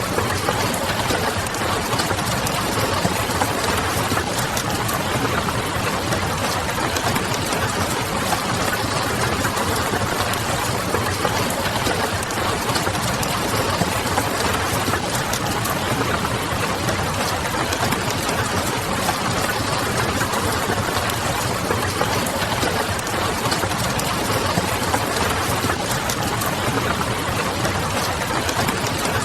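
Steady rain pattering mixed with a wood fire crackling: a dense, even wash of noise with many small crackles through it.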